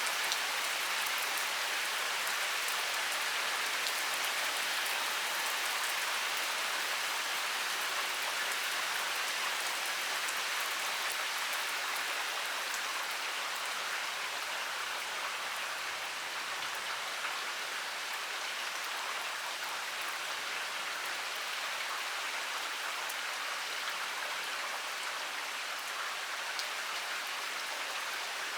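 Heavy rain pouring steadily: an even hiss of countless drops, with scattered sharper ticks of single drops.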